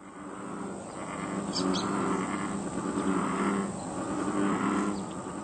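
Frogs calling from a pond in a chorus of low croaks, each lasting up to about a second, repeating and overlapping. A bird chirps briefly about a second and a half in.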